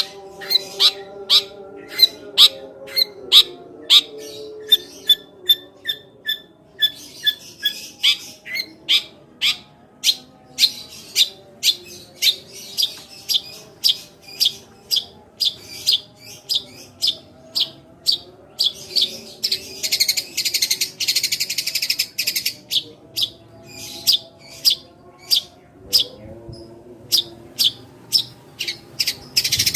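Long-tailed shrike singing a long run of sharp, loud chirps, two to three a second, in imitation of Eurasian tree sparrow calls (the 'tembakan gereja' sparrow-shot song). The run is broken twice by a buzzy, rattling trill, briefly about a quarter of the way in and longer past the middle.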